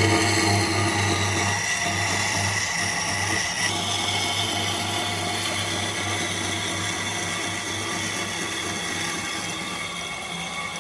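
An electric power tool running steadily while working wood, its tone shifting slightly about a third of the way in.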